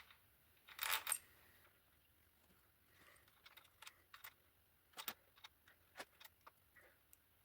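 Metal tools and engine parts clinking as they are handled: a short jangling rattle about a second in, then a scatter of light clicks and taps.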